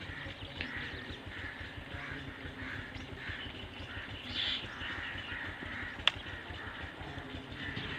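Birds calling in the background over a faint steady hiss, with one sharp click about six seconds in.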